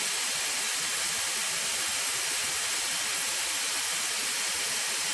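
Compressed air hissing steadily out of an air compressor's tank through its air line, bleeding the pressure down towards the point where the motor should cut back in. The compressor motor is not running.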